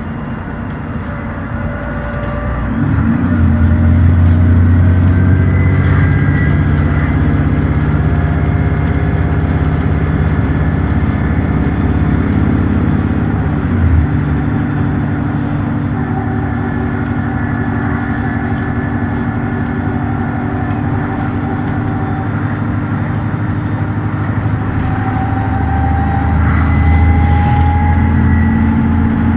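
Dennis Trident double-decker bus engine under full-throttle kickdown: the engine note jumps up about three seconds in as the gearbox kicks down, pulls hard, then drops back at an upshift about halfway through and climbs again near the end.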